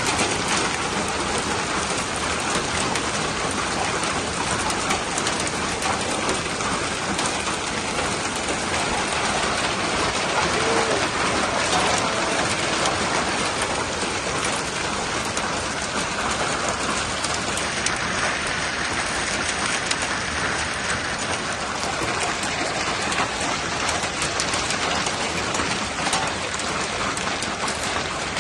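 Hailstorm: a dense, steady downpour of hail striking surfaces, heard as countless small clicking impacts with no letup.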